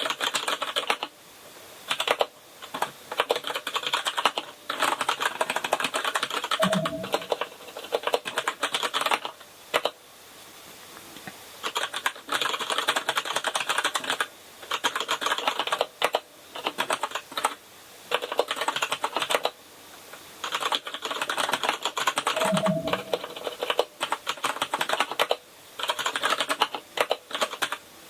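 Typing on a KINESIS Advantage ergonomic keyboard with brown switches: runs of rapid keystroke clicks broken by short pauses. A duller, heavier key thump comes twice.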